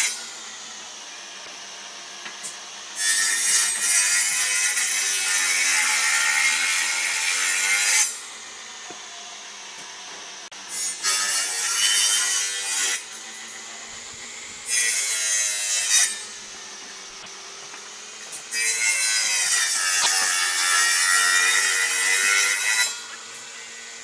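A power tool working on a workpiece in four bursts of two to five seconds each, its pitch bending as it is loaded, with a steady hum in between.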